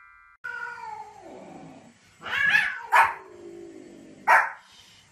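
A long, falling yowl about half a second in, then a small white spitz-type dog barks sharply three times at a cat.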